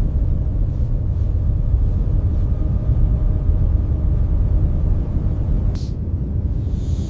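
Steady low rumble of storm wind, with a brief swish about six seconds in.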